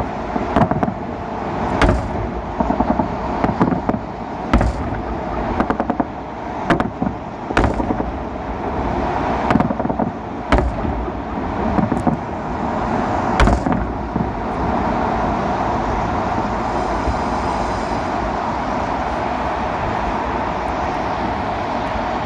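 Fireworks salute shells bursting with sharp bangs at irregular intervals, which stop about fourteen seconds in, over a steady background rumble of city traffic and wind.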